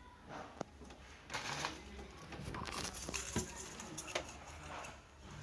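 Homemade slime of styrofoam balls dissolved in nail polish remover being handled and mixed. It makes irregular soft, sticky rustling sounds and a few sharp clicks.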